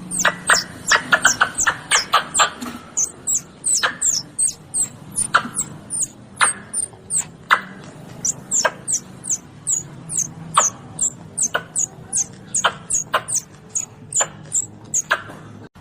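A small animal giving a rapid, irregular run of short, sharp, high-pitched chirps, several a second, each dropping quickly in pitch.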